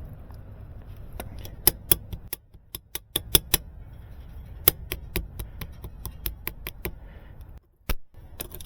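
Irregular sharp clicks and taps of small hard parts being handled and fitted by hand, over a low steady rumble.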